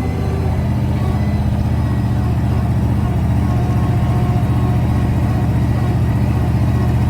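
A vehicle engine running steadily with a low, even drone, picking up slightly in the first second.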